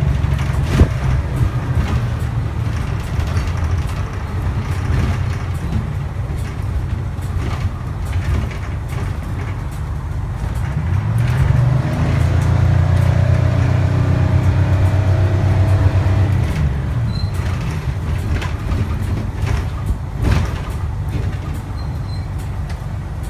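Detroit Diesel 6V71 two-stroke V6 diesel running in a 1974 fishbowl transit bus on the move. It grows louder for about five seconds in the middle with a rising whine as the bus pulls away or accelerates, then eases back to a steadier run.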